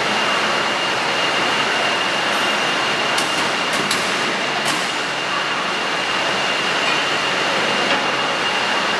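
Reach truck running: a steady rushing mechanical noise with a thin, steady high whine, and a few sharp clicks about three to five seconds in.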